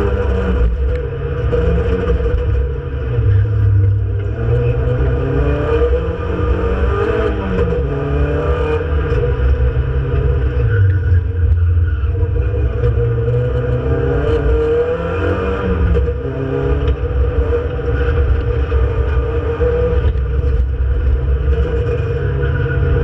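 Renault Clio Sport 182's 2.0-litre four-cylinder engine at racing speed, heard from inside the cabin, its revs climbing and dropping again and again through gear changes and corners.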